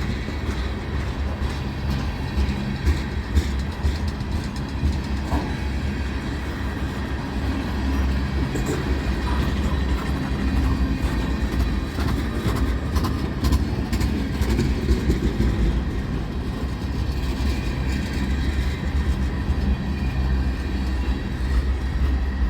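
Train running on the rails: a steady low rumble with scattered wheel clicks over the track.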